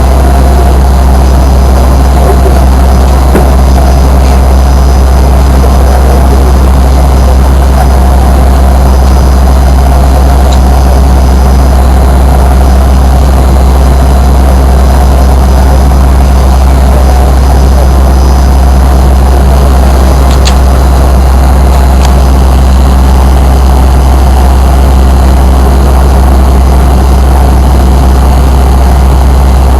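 Fokker 100's rear-mounted Rolls-Royce Tay turbofans running steadily, a loud even drone with a strong low hum, heard from inside the passenger cabin.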